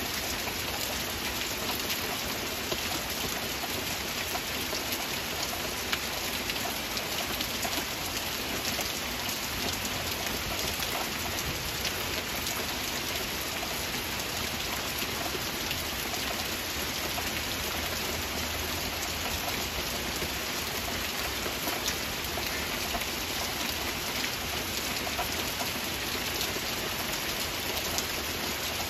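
Heavy rain falling steadily in a forest: an even hiss flecked with the small ticks of individual drops.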